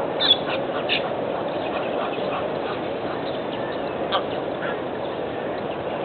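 Birds calling in short, sharp notes, a few in the first second and one more about four seconds in, over a steady background rush.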